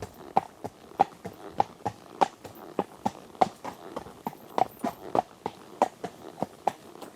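Horse hooves clip-clopping at a steady, even pace, about three sharp strikes a second.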